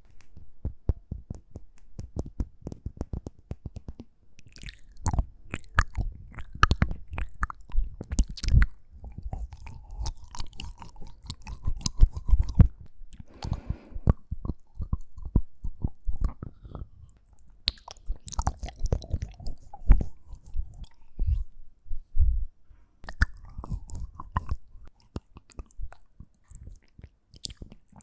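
ASMR mouth sounds close to the microphone: rapid, irregular clicks and pops of lips and tongue, coming in clusters with short pauses between them.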